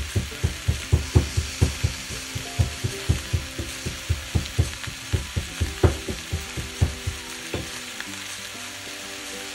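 Chicken pieces, onion and green capsicum sizzling as they fry in a stainless steel pan, a steady hiss. Under it runs a quick, even thumping, about four beats a second, that stops about eight seconds in.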